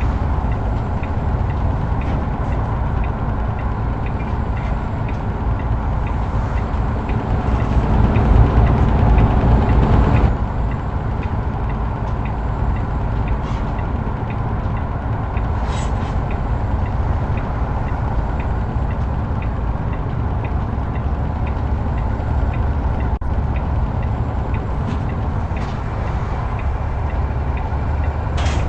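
Heavy truck driving at road speed: a steady engine drone with low road rumble. It grows louder for a couple of seconds about eight seconds in, then drops suddenly.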